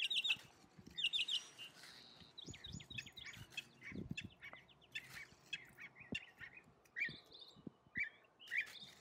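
Small birds chirping in quick, repeated high-pitched calls and short trills, with a few faint knocks among them.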